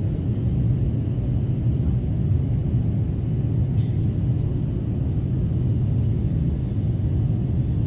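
Steady low rumble of an Airbus A350-900 with its Rolls-Royce Trent XWB engines running, with a faint click about four seconds in.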